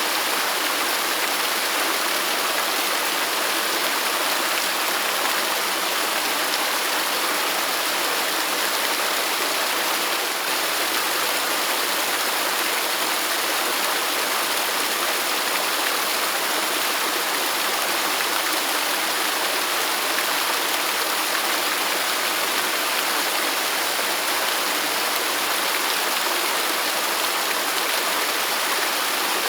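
Waterfall rushing steadily, an unbroken hiss of falling water with little bass.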